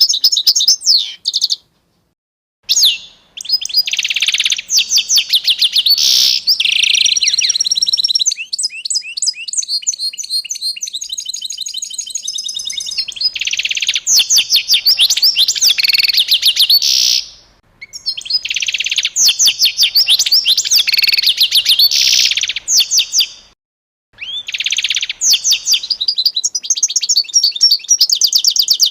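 A songbird singing long, high-pitched phrases of rapid trills and repeated notes, each several seconds long, broken by a few short silences.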